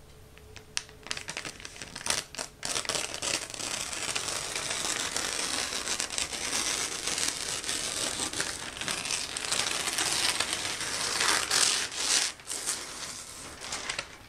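Crinkling and rustling, as of a crumpled material, dense with sharp crackles; it starts about a second in and stops shortly before the end.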